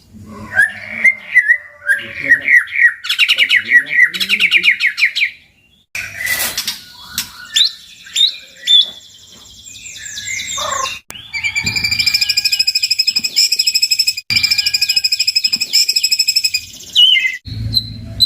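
White-rumped shama (murai batu) song: a varied run of loud whistles and fast trills, broken by abrupt cuts, with a long stretch of rapidly repeated high notes in the second half.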